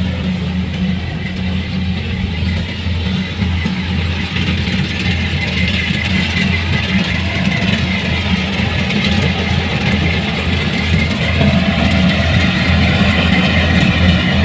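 Kubota DC-105X combine harvester's diesel engine running steadily with a constant low hum, growing slightly louder in the second half.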